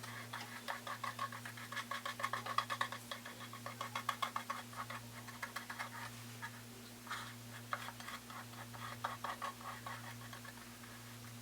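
Rapid light scratching strokes in quick runs, pausing briefly in the middle, over a steady low hum.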